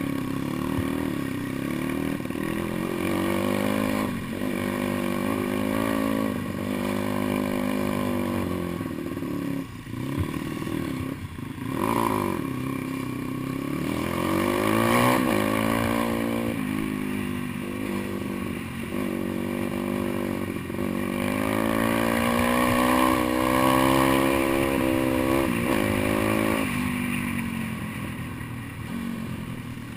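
Pit bike engine under way off-road, its revs climbing and dropping again and again as the throttle is opened and shut, with short lifts of the throttle now and then.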